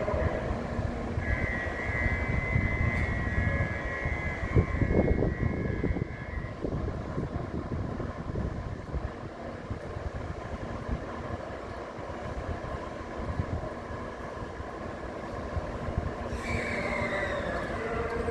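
Shinkansen train noise at a station platform: a continuous low rumble of running gear, loudest about five seconds in. A steady high ringing tone lasts for several seconds early on, and a falling whine begins near the end.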